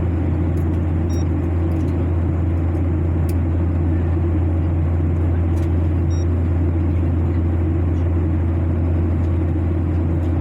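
Steady drone of an airliner's cabin in flight: engine and airflow noise, low and unchanging. Two short high beeps sound about a second in and about six seconds in.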